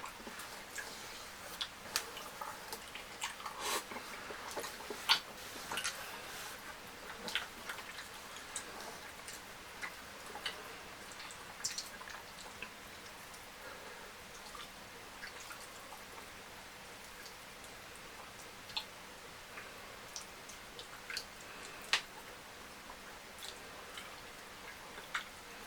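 Eating sounds: wet chewing and sharp lip-smacking clicks, coming thick and fast in the first half and more sparsely later.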